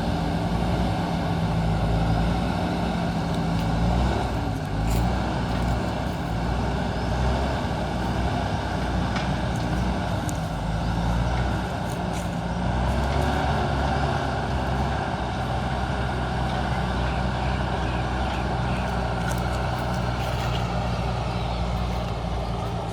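JCB backhoe loader's diesel engine running steadily under working load, its pitch shifting a few times as the throttle changes, with a few sharp metallic knocks.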